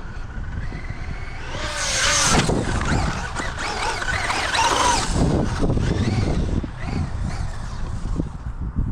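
Traxxas UDR radio-controlled trophy truck making a run: its electric motor whines, rising in pitch as it speeds up and wavering up and down with the throttle. The whine is loudest, with a rush of noise, from about two to five seconds in as the truck passes closest, then fades.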